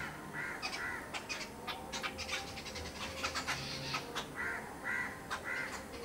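Birds feeding on scattered grain: short calls in two groups of three, one near the start and one near the end, with sharp clicks in between from beaks pecking at the grain on the ground.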